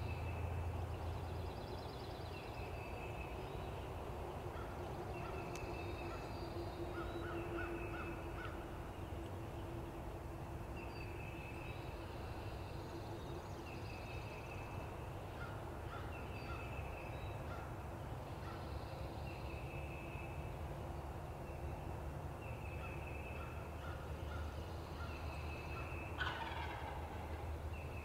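Wild turkey gobbler gobbling in the distance, while songbirds repeat short trilled songs.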